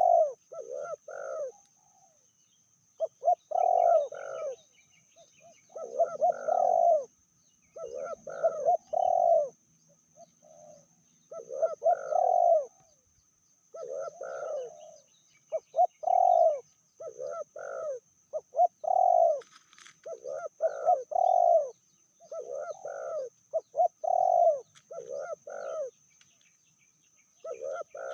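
Spotted dove (tekukur) cooing over and over: short phrases of several low, throaty notes, repeating every second or two with brief pauses. A steady thin high-pitched whine runs underneath.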